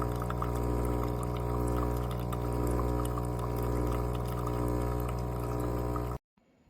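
Espresso machine's pump running with a steady, even hum while water pours, with small clicks over it; it cuts off abruptly near the end.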